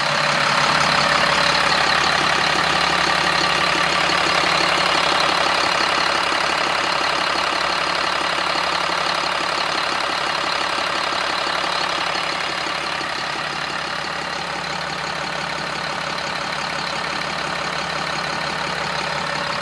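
2007 Sterling L7500 garbage truck's 7.2-litre diesel engine idling steadily, sounding healthy.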